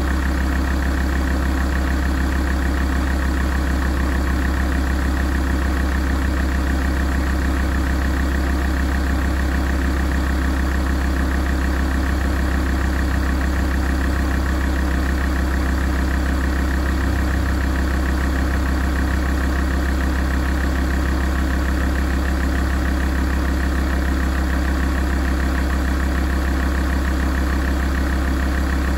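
Alfa Romeo 166 facelift's 2.4 JTDm five-cylinder common-rail diesel idling steadily as it warms up.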